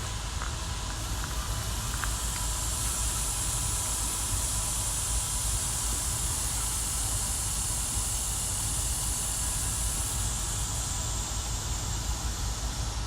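Outdoor ambience: wind rumbling on the microphone under a steady high hiss that comes up about two seconds in and eases off near the end.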